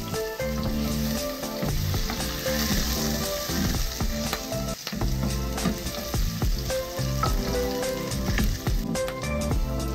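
Chopped garlic sizzling and crackling in hot oil in a stainless steel pan, stirred with a spatula. Background music plays softly underneath.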